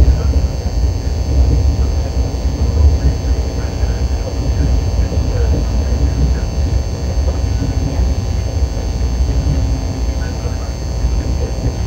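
Cabin noise of a KTX train on the move: a steady low rumble with a hum.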